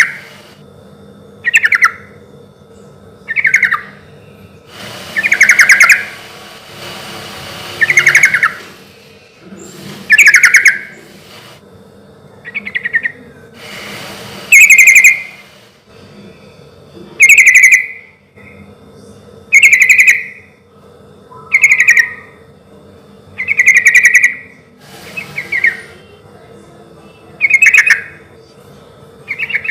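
Yellow-vented bulbul (cucak trucuk) singing loudly: short, bubbly phrases repeated about every two seconds.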